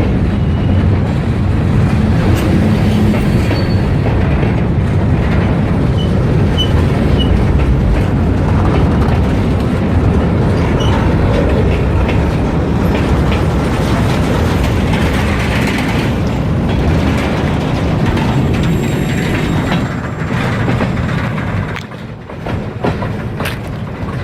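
Freight train rolling past at close range: a steady loud rumble and clatter of wheels on the rails, easing off about twenty seconds in as the train goes by.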